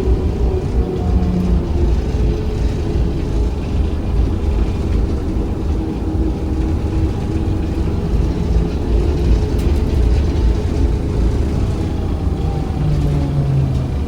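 ZiU-682 trolleybus running along the road, heard from inside, with a steady low rumble from the tyres and body and a whine from the electric traction motor. The whine falls in pitch over the last few seconds as the trolleybus slows.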